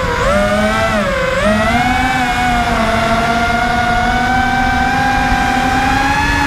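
Brushless motors and propellers of an FPV racing quadcopter whining, the pitch dipping twice early on as the throttle is eased and then rising to a nearly steady high whine.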